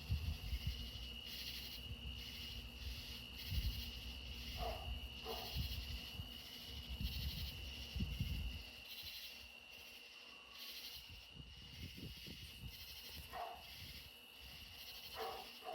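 Night insects calling steadily: one constant high-pitched trill under a rhythmic pulsing chorus of crickets and locusts. A dog barks faintly twice about five seconds in and a few times near the end. A low rumble drops away about halfway through.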